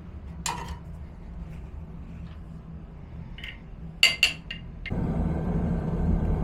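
Metal clinking: a few sharp ringing metallic knocks, the loudest a quick cluster of them about four seconds in, over a low steady hum that grows louder about five seconds in.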